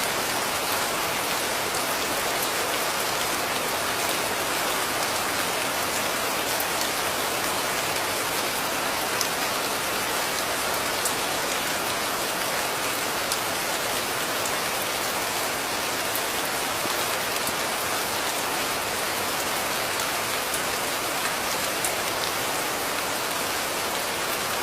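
Steady heavy rain falling, an even dense hiss with a few sharper drop ticks now and then.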